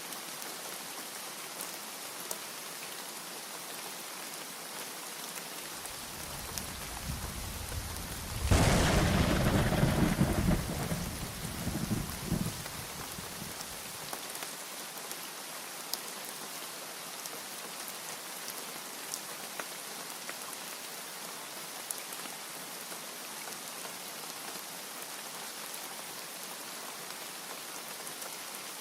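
Steady heavy rain falling throughout, with a thunderclap: a low rumble builds about a quarter of the way in, breaks into a sharp loud crack, then rolls away over several seconds.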